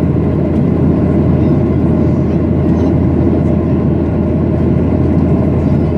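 Steady engine and airflow noise of a Boeing 737-800 heard inside the passenger cabin: a constant deep hum under a dense rumble.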